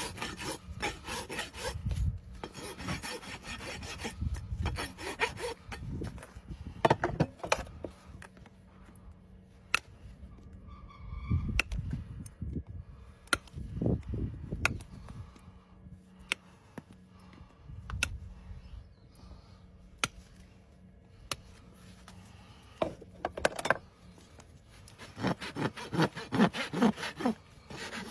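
Farrier's rasp scraping a horse's hoof in quick back-and-forth strokes. It pauses for a long stretch in the middle, broken only by a few sharp clicks, and the rasping resumes near the end.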